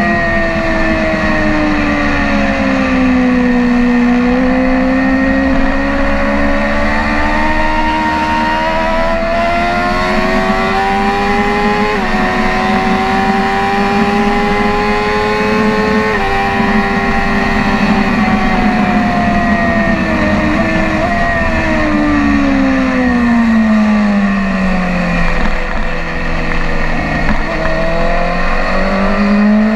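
BMW S1000RR inline-four sport bike engine under hard riding: the pitch drops in the first few seconds under braking, climbs steadily with two quick upshifts, falls steeply again a little after the midpoint, and climbs once more near the end as the bike accelerates.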